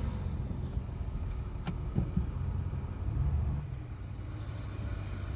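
Ram pickup truck's engine running at low speed, heard from inside the cab, its low rumble swelling briefly around three seconds in and then easing. There is a single sharp click a little before two seconds in.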